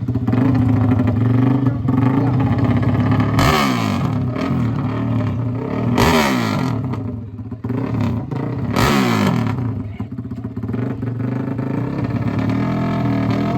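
Honda CRF450R's single-cylinder four-stroke engine running, with three sharp throttle blips about three and a half, six and nine seconds in. After each one the pitch falls back.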